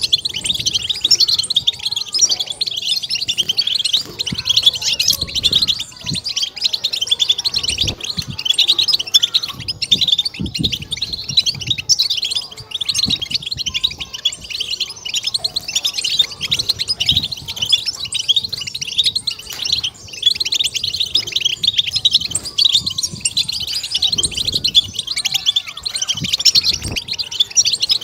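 European goldfinch singing a fast, unbroken twittering song, the 'batbata' chatter played to stimulate other goldfinches into song. Faint low thuds come at irregular moments underneath.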